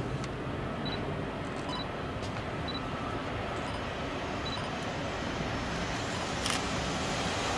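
Approaching train hauled by an EF65 electric locomotive with old passenger coaches, heard as a steady distant rumble that slowly grows louder toward the end. A single sharp click comes about six and a half seconds in.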